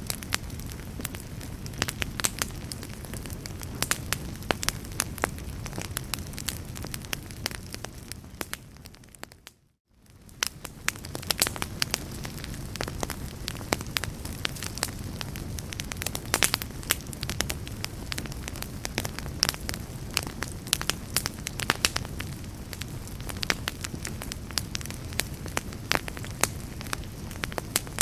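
Wood fire crackling, with frequent sharp pops and snaps over a steady low rumble. About nine seconds in, the sound fades smoothly down to near silence and straight back up, like a loop seam in the recording.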